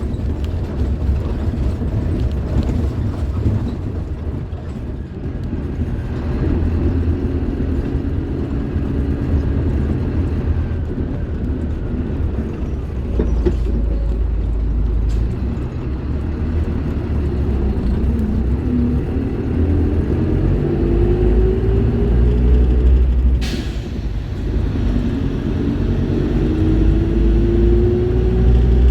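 Scania K310IB bus's five-cylinder diesel engine pulling under load, its pitch rising twice as it accelerates through the gears. Near the end of the first rise there is a short hiss of air and the revs drop before climbing again, as at a gear change.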